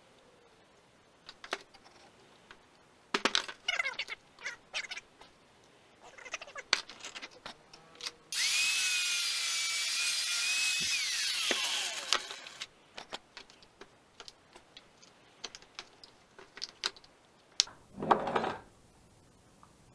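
Angle grinder with a tile-cutting blade running for about four seconds against a plastic water-filter housing, a steady whine that falls in pitch as it spins down. Before and after come scattered clicks and knocks from handling the clamped plastic housing, and near the end a short rough burst of noise.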